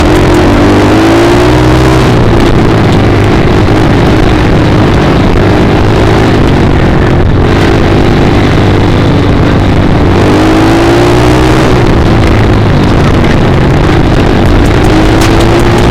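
Dirt bike engine running under way, its pitch rising and falling several times as it revs, over a steady rushing noise; loud throughout.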